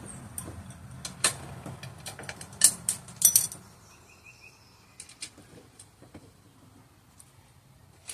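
Metallic clicks and clinks of small hardware and hand tools being handled while working on a generator frame, busiest in the first three seconds, then a few scattered clicks.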